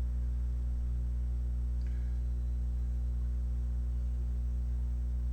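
Steady low electrical mains hum, a 50 Hz buzz with its overtones, holding level throughout.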